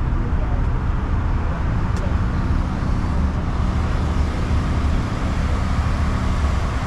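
A car engine idling nearby with a steady low rumble.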